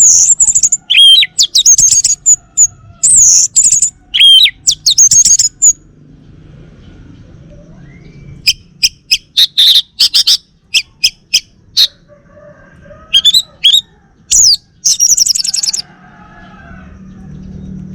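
Male orange-headed thrush singing: rapid runs of loud, high whistled and trilled notes, breaking off for a couple of seconds about six seconds in and then starting again.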